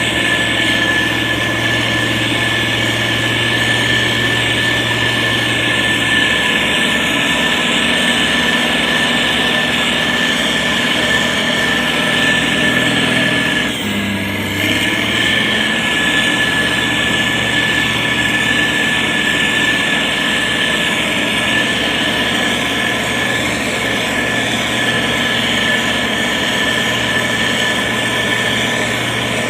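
Diesel engine of a heavy road-building machine running steadily, with a steady high tone above it and a brief dip about halfway through.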